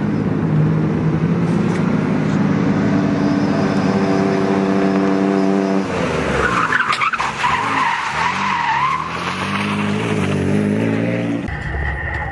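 Car engine pulling hard under throttle, then lifting off; the tyres squeal for a couple of seconds and the engine revs climb again. Near the end the sound changes abruptly to a different steady engine drone.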